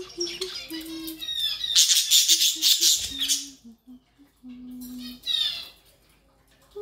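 Budgerigars chirping and warbling in quick high chatter, with a loud dense burst about two seconds in and a shorter run of chirps near the end.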